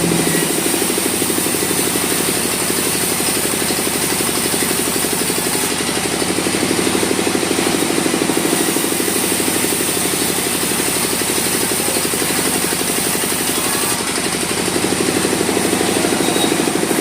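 Sawmill machinery running steadily: a loud engine-like drone with a fast fine rattle and a thin steady high whine, swelling slightly a few times.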